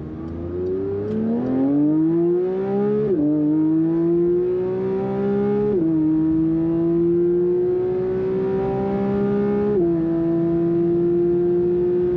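Porsche 992 GT3's naturally aspirated 4.0-litre flat-six accelerating hard: the engine note climbs, then drops sharply at each of three upshifts, about three, six and ten seconds in, climbing more slowly after each shift.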